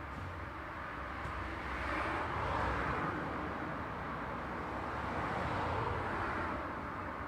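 Road traffic: a steady rush of tyre and engine noise, swelling as vehicles pass about two seconds in and again near six seconds, with a low engine rumble underneath.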